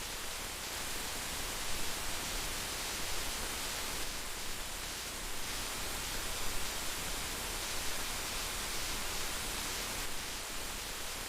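Heavy rain falling steadily, an even hiss of dense raindrops.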